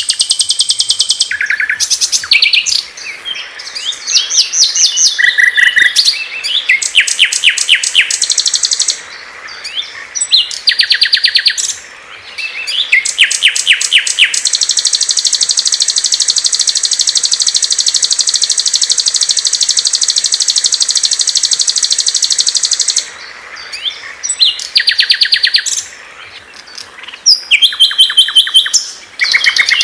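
Small songbirds singing loud, high, fast trills and chirps in short phrases. In the middle, one continuous trill runs unbroken for about nine seconds.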